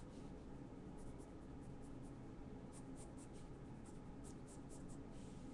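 Faint drawing strokes: a pen scratching out lines in short quick strokes, in several runs.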